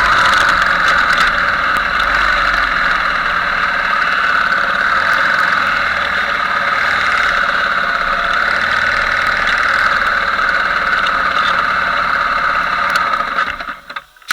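Motorbike engine running steadily, then cutting off near the end.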